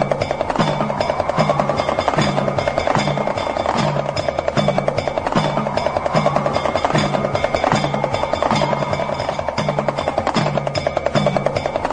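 Damru, the small two-headed Indian rattle drum, rattling in a fast continuous stream of strokes over a steady low drum pulse, with a tone sweeping upward every few seconds.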